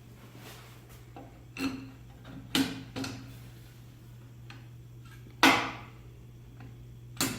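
Five sharp knocks and clunks at irregular intervals, the loudest about five and a half seconds in, over a steady low hum: the lift table's rollers being set back into the roller platform.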